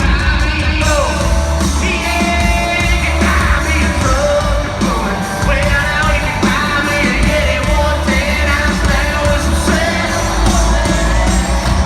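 Live country-rock band playing at full volume in an arena, with strong bass and drums under a lead line that bends up and down in pitch.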